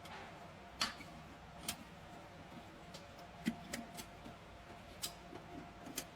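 Irregular sharp clicks and light knocks, about one or two a second, over a faint steady hum.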